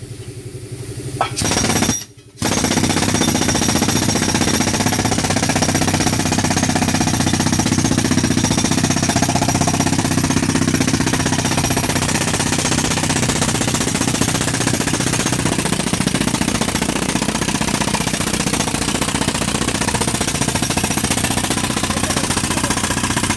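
Powerful compressor running loud and steady with a rapid pounding chatter; it comes on, drops out for a moment about two seconds in, then runs on without a break.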